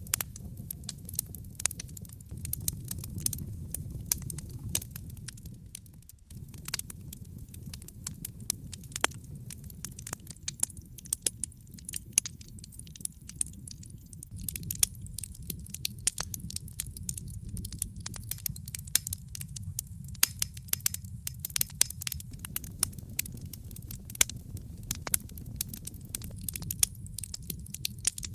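Wood campfire crackling, with frequent sharp pops and snaps, several a second, over a low steady rumble.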